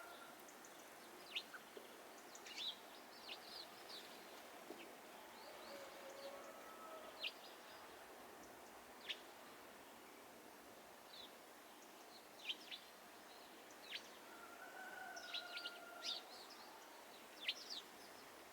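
Faint garden birdsong: small birds giving short, sharp chirps scattered irregularly through, over a quiet outdoor background. A longer, lower drawn-out call sounds at the start and again about fifteen seconds in.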